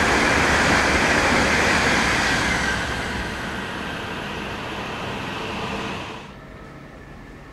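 Shinkansen bullet trains running through a station at reduced speed: a steady rush of wheel and air noise. It eases about three seconds in, then cuts off suddenly near the end.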